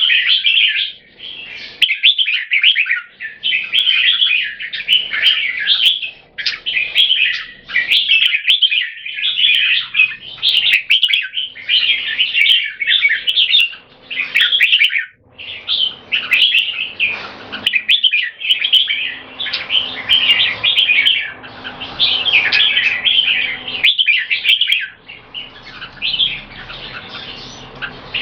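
Two bulbuls singing against each other in rapid, almost unbroken bursts of chirpy phrases, each trying to out-sing the other: a song duel that shows controlled aggression.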